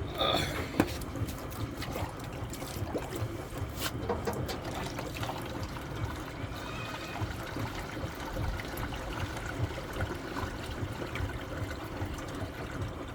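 Water trickling and pouring steadily into a washing machine as it keeps being filled.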